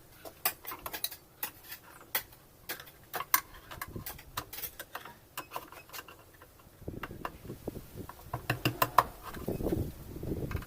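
Irregular clicks and light knocks of tools and metal or plastic parts being handled while a top-loading washing machine is taken apart. Duller knocks and handling noise come more often in the last few seconds.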